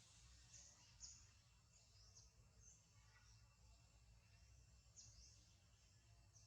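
Faint background with scattered short, high chirps sweeping downward in pitch, from birds, about six over the few seconds, over a low rumble.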